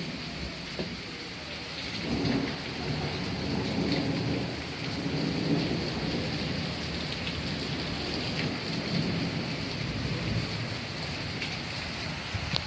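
Steady rain with rolling thunder that begins about two seconds in and rumbles on for several seconds.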